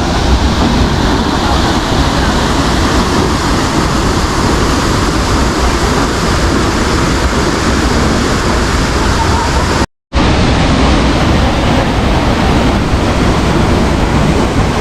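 Steady loud rush of a large waterfall dropping some 200–300 feet in heavy flow after rain upstream. The sound cuts out for a split second about ten seconds in.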